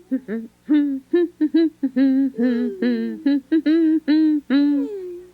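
A cartoon character's voice humming a wordless, bouncy tune in a long string of short notes.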